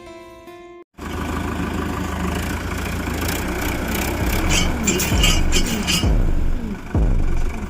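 Brief plucked-guitar music cuts off, then a tractor engine runs under load as it pulls an old pole from the ground, with rattling and several heavy low thumps in the second half.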